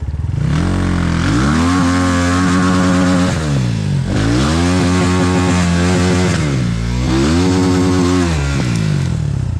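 Enduro motorcycle engine revved hard three times, each time rising, held high for two or three seconds, then dropping back, as it tries to drive the bike out while it is stuck in the stream bed.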